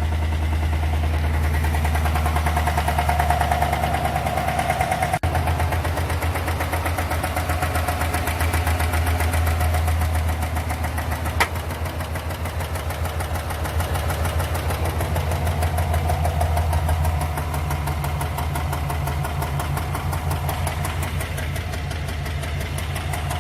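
2021 Tahoe/Yukon engine running at idle with a fast, steady ticking over its hum: the ticking noise that goes with its misfire code (P0300).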